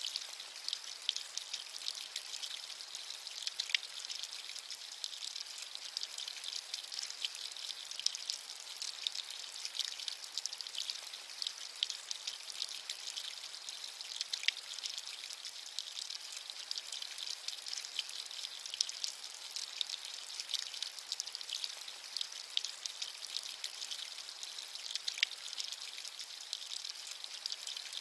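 Steady rain with many close, crisp drop ticks, the sound sitting high with almost no low end.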